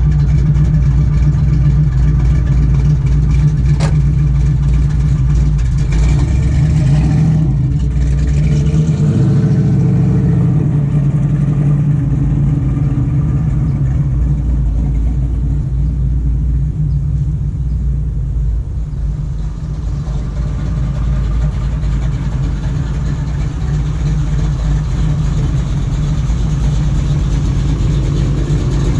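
1970 Chevrolet Camaro's engine running with a deep, steady exhaust note, shifting briefly about eight seconds in.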